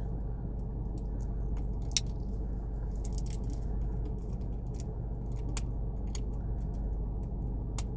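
Fingers picking and tugging at the plastic tear strip of a blind toy capsule: scattered small clicks and crinkles, with a sharper click about two seconds in and another near the end. A steady low hum runs underneath.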